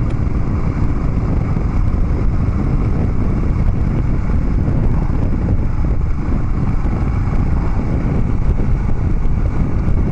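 Harley-Davidson Dyna Street Bob V-twin running steadily through Vance & Hines Big Radius 2-into-2 exhaust pipes while riding, with wind rushing over the microphone.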